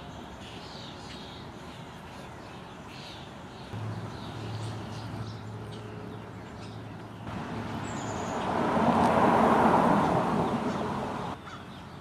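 A vehicle going by, its noise building and peaking about three-quarters of the way through before cutting off sharply. Before it, a low steady hum and some short bird calls are heard.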